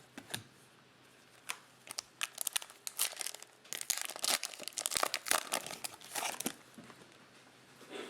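A foil trading-card pack wrapper being torn open and crinkled in the hands, a run of crackles and tears lasting a few seconds in the middle.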